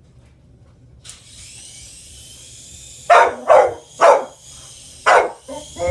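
A dog barks five times in quick succession from about three seconds in, excited by a helicopter. Under the barks, a steady high-pitched whine starts about a second in: the small electric motor and rotor of a toy helicopter spinning up.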